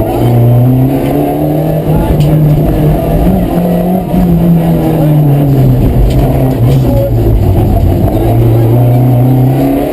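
Rally car engine running hard through the gears, its pitch climbing and dropping several times as it accelerates and shifts.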